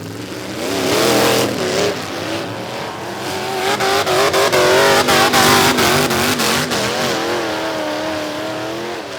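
Several pickup truck engines revving hard in a demolition derby, their pitch rising and falling, with a run of sharp knocks in the middle.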